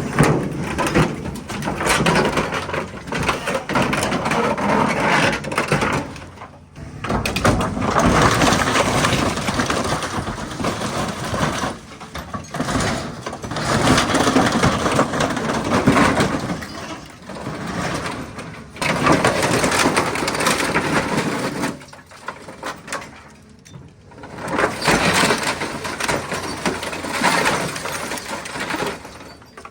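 Scrap vehicle metal crunching and breaking as heavy equipment tears it apart, in long noisy stretches broken by short pauses.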